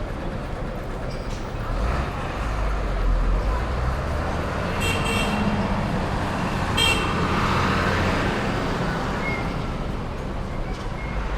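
Street traffic: a steady wash of road noise with a heavy vehicle's low rumble swelling past, and two short car-horn toots about five and seven seconds in.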